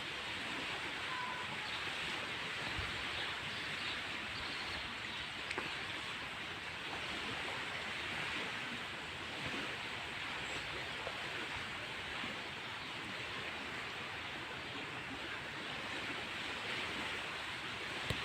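A steady outdoor rushing noise, even and without pitch, with a couple of faint knocks about five seconds in.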